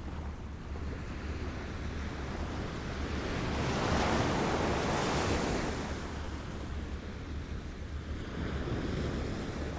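Waves lapping on a shore: one wave swells up to a peak about halfway through and ebbs away, over a steady low rumble of wind on the microphone.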